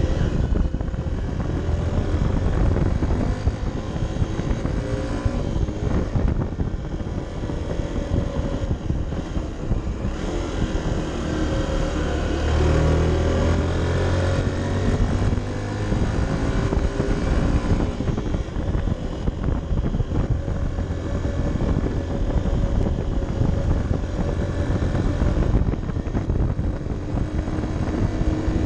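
Honda CB125F's single-cylinder four-stroke engine running on the move, its pitch rising and falling with the throttle, under a steady rush of wind noise.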